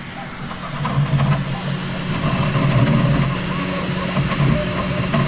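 3D printer running mid-print: the stepper motors whine and buzz, their pitch shifting irregularly as the print head darts about, over a steady hum. It gets louder about a second in.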